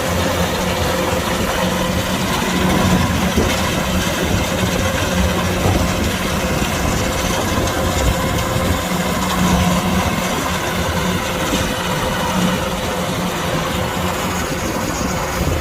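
Kubota DC-105X combine harvester's engine running steadily under a constant load, with a continuous drone and a steady hum.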